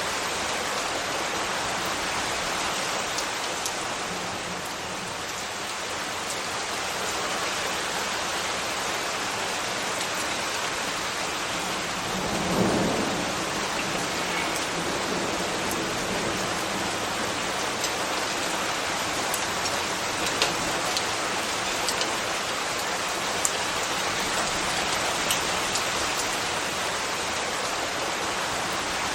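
Steady rain falling, with scattered sharper drop clicks. A brief low rumble swells and fades about twelve seconds in.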